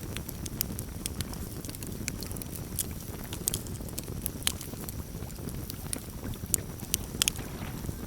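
Campfire crackling: scattered sharp pops and snaps, a few louder ones in the second half, over a steady low rumble.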